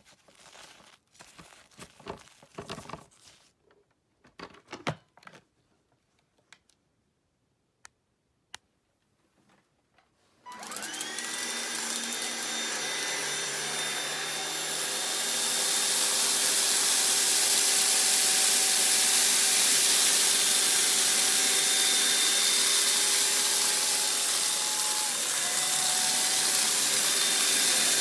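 A few soft clicks and rustles of handling, then about ten seconds in an upright vacuum cleaner switches on. Its motor whines up to speed and keeps running steadily, growing louder about fifteen seconds in.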